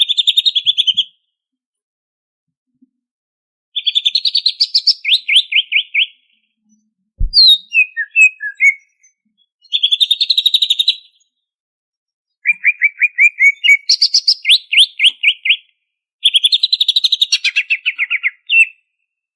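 Green leafbird (cucak ijo) singing in repeated bursts of rapid, chattering trills, with short pauses between phrases. A single low thump comes about seven seconds in.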